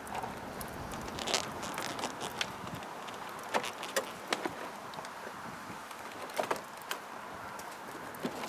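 Scattered light plastic clicks and knocks at irregular intervals as the interior door trim panel of a Ford Expedition is pushed back onto the door.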